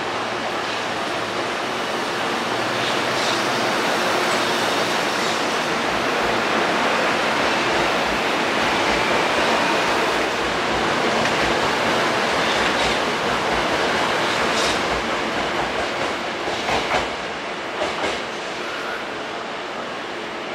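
Hankyu 1000 series electric train running on the rails: a steady rolling noise of wheels on track that swells and then eases off near the end.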